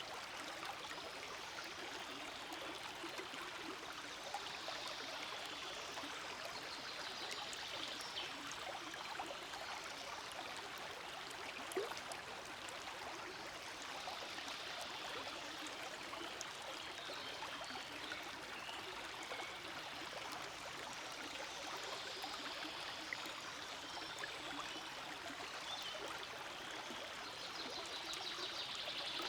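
Small forest stream flowing steadily over stones, a continuous trickling rush of water.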